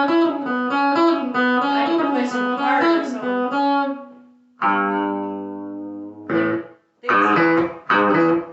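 Guitar played through a Spark amp: a quick run of single notes for about four seconds, then a ringing chord left to fade, followed by a few short chord stabs with brief gaps between them.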